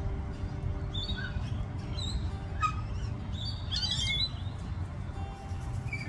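Birds chirping in short calls, with a busier cluster about four seconds in, over calm background music with long held notes.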